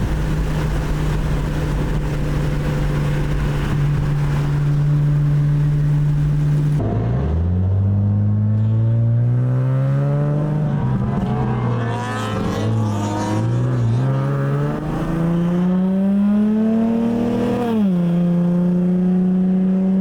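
Car engine heard from inside the moving car: a steady cruising tone with rushing wind for about seven seconds, then the engine drops in pitch and revs climb and fall back several times as the car accelerates through the gears.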